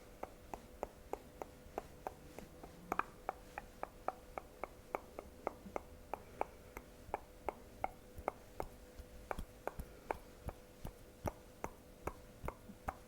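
Fingernails tapping on glass in an even, steady rhythm of about three sharp taps a second.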